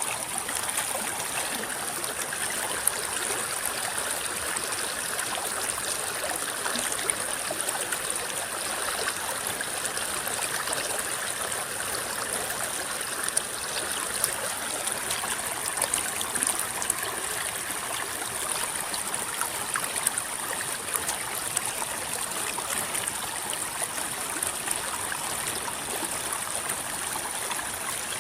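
River water flowing and rippling steadily, a continuous babbling with many tiny splashes and droplet ticks through it.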